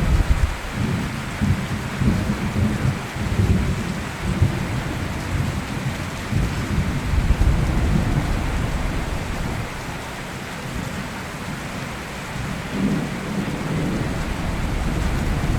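Steady rain falling, with thunder rumbling in rolling swells through the first half, easing off, then rumbling again near the end.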